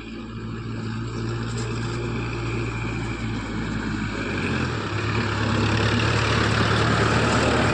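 Kubota tractor's diesel engine running, growing steadily louder, its low note stepping up about four and a half seconds in.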